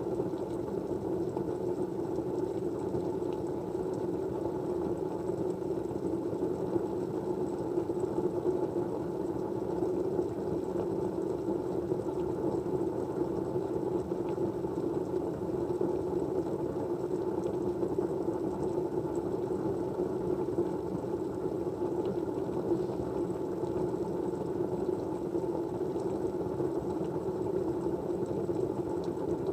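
Steady, even background noise with a low, muffled rushing quality and no changes or distinct events, the kind of white-noise ambience laid under study-with-me videos.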